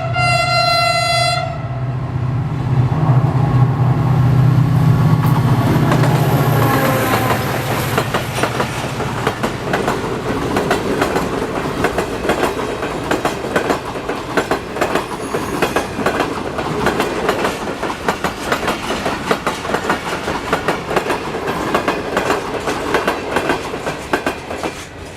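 An HGMU-30 diesel locomotive's horn sounds and cuts off about a second and a half in, while the engine runs with a heavy low rumble as the locomotive passes. After about six seconds the engine fades and the carriages pass with a fast, steady clickety-clack of wheels over rail joints.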